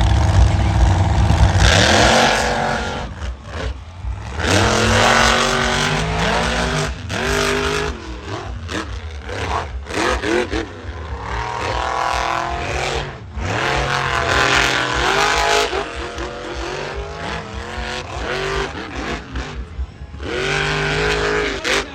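Monster truck engines at full throttle during a side-by-side drag race, revving up and falling back again and again as the trucks launch and run.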